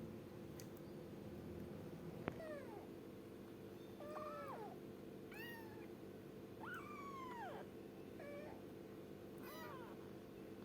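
Kitten meowing repeatedly: about six high, arching meows, the longest about a second, beginning a couple of seconds in just after a sharp click. A steady low hum runs underneath.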